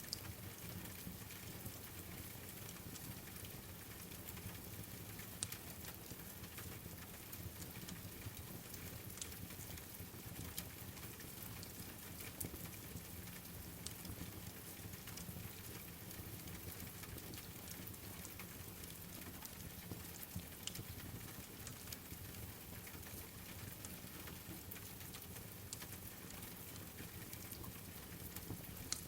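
Steady rain falling on a surface, mixed with a crackling wood fire: an even hiss with scattered sharp crackles and pops every second or two.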